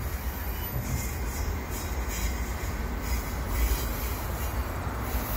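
Freight train cars rolling on the rails just after the tail end has passed: a steady low rumble of wheels on track with a few faint, scattered clicks.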